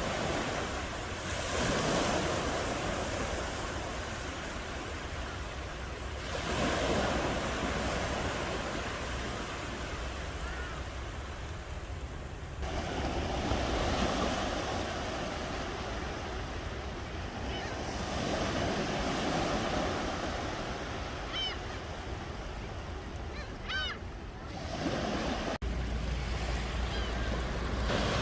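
Ocean waves breaking and washing on the shore, a rushing surf that swells and eases in a new surge every five to six seconds, with some wind.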